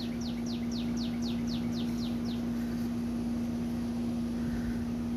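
A bird singing a fast series of high notes, each sliding down in pitch, about four a second, that stops about two and a half seconds in. A steady low hum runs underneath.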